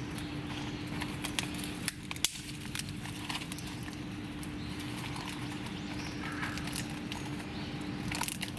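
Small campfire being lit: irregular sharp crackles and ticks from kindling catching, with a couple of louder snaps about two seconds in, over a low steady rumble. The firewood is not fully dry.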